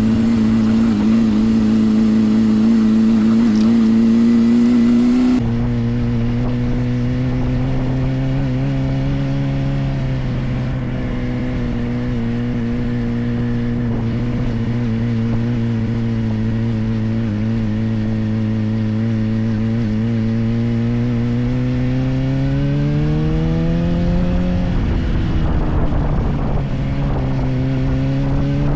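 Suzuki GSR400's inline-four engine running through a Yoshimura exhaust at a steady cruise. Near the end the revs climb, dip briefly, and climb again.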